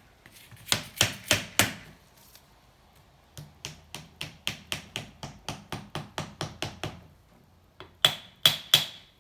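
Hammer driving wedges in between the seized cylinder and the crankcase of a Honda C70 engine to prize the stuck cylinder off: four hard blows, then a run of lighter taps about four a second, then three more hard, ringing blows near the end.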